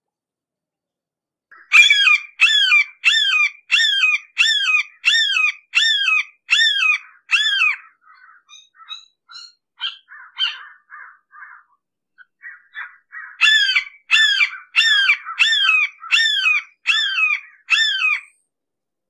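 Red-shouldered hawk giving its repeated kee-ah call: a quick series of about ten loud screams, each slurring down in pitch, then a few softer calls, then a second series of about eight screams.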